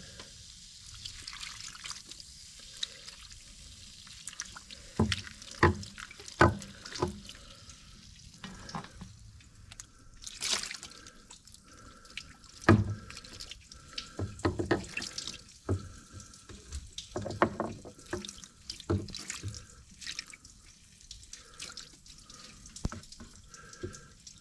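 Baking soda and warm water being poured and worked over a tractor battery, splashing and dripping, with scattered knocks and taps.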